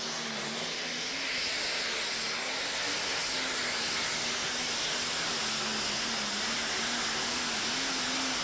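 Tractor-pulling machine's engine running loud and steady: a rushing hiss with a slightly wavering hum underneath.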